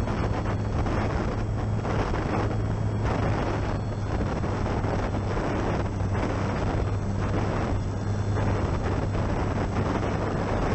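Gusty wind buffeting the microphone, swelling and dipping every second or so, over the steady low drone of the Durafly Tundra RC plane's electric motor and propeller.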